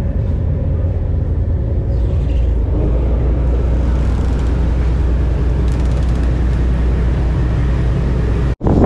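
A large engine running steadily as a low, even rumble. It cuts off abruptly near the end.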